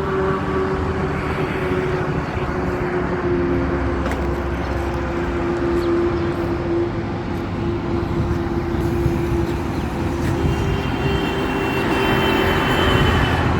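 Motorcycle engine running at a steady speed under road and wind noise while riding.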